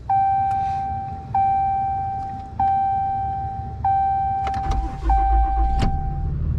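A 2016 Dodge Ram pickup's dashboard warning chime ringing five times, about a second and a quarter apart, the kind that sounds with the key in the ignition and the door open. About two-thirds of the way in, the truck's engine starts and settles into a low steady idle, with one sharp click shortly after.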